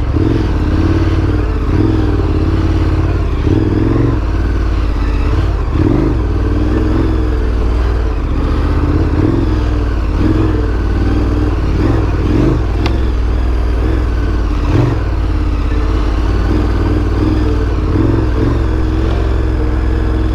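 Big adventure motorcycle's engine running at low revs, its pitch rising and falling a little with small throttle changes as it is ridden along a trail.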